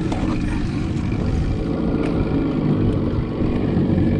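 Boat's outboard motor running steadily, a low even hum.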